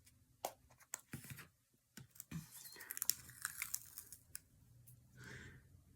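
Light clicks and taps with crinkly rustling from hands handling craft materials on a canvas, busiest in the middle, then a soft rustle near the end.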